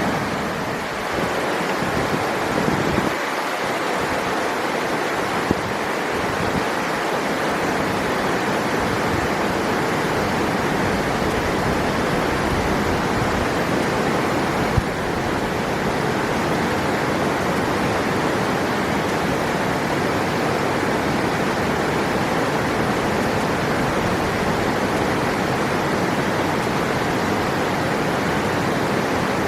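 River water rushing steadily, an even, unbroken noise, with one brief tap about halfway through.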